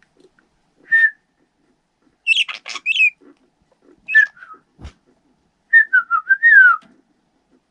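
A person whistling short notes and a falling phrase, and a pet budgerigar answering with chirps and scratchy calls in between. A single short knock comes near the middle.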